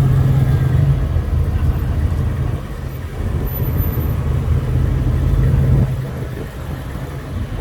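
Car engine running at low speed, a deep steady rumble that swells and eases slightly.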